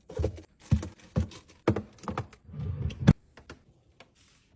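Groceries and containers being set down and arranged on fridge shelves: a run of light clacks and knocks, about two a second, thinning out near the end.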